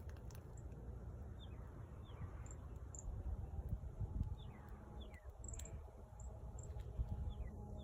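Birds chirping: short, downward-sliding chirps and a few brief high notes every second or so, over a low rumble.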